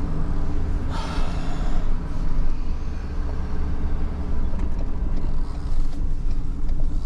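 Tow truck's engine running steadily with road noise while the truck moves at low speed, with a short hiss about a second in.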